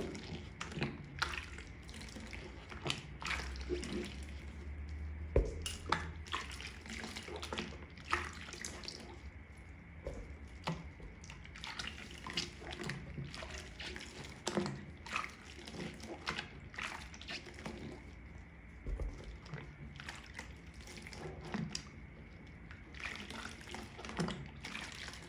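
Wet makeup sponge being squeezed and rinsed in soapy water: irregular squishes, drips and small splashes, several a second.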